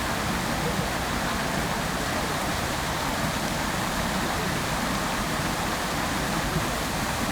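Water fountain splashing steadily: an unbroken rush of falling water.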